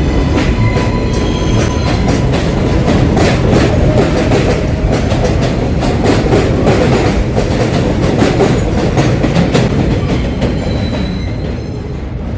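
New York City subway train running past, its wheels clicking steadily over rail joints, with a few brief high wheel squeals in the first couple of seconds. The sound eases off slightly near the end.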